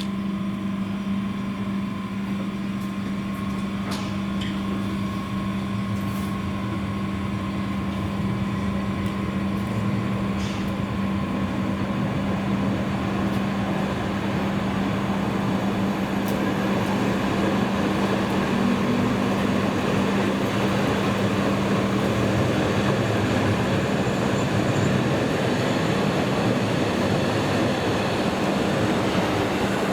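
Rhaetian Railway train running, a steady hum over rolling wheel noise that grows gradually louder, then holds.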